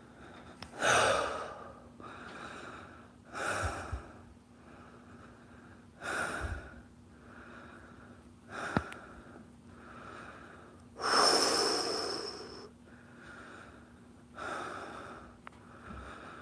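A person breathing heavily and audibly, a loud rushing breath every two to three seconds with quieter ones in between. The longest and loudest breath, about eleven seconds in, carries a thin whistle.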